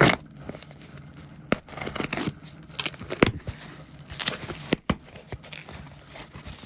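Packaging being opened and handled: wrapping rustling, crinkling and tearing in irregular bursts, with a few sharp clicks.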